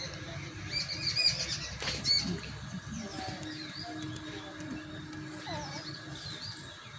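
Small birds chirping: many short, quick, repeated calls, busiest in the first two seconds and again near the end, over a low outdoor rumble.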